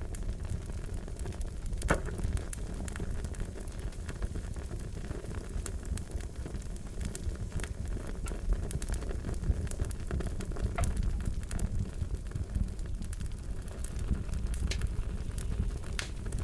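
Fire crackling: a steady low rumble with irregular sharp pops and snaps, one louder pop about two seconds in.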